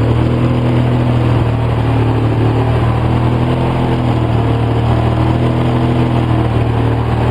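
2004 Polaris Sportsman 700 ATV's twin-cylinder engine idling steadily on partial choke. It has a rough idle from a badly set carburetor and dies when the choke is taken off.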